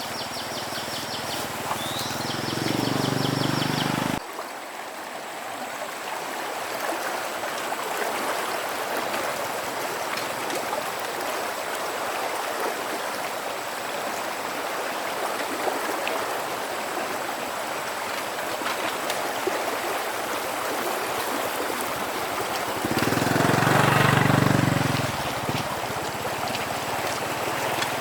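Steady rushing of running river water. A different, louder sound fills the first few seconds and cuts off suddenly, and a louder low rumble swells for about two seconds near the end.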